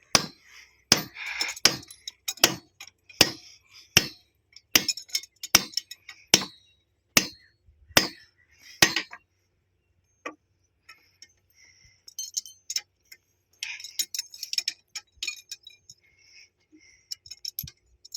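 Sharp metal-on-metal clinks, struck evenly about once every three-quarters of a second for roughly nine seconds, then after a short pause scattered lighter clinks and rattles of metal parts.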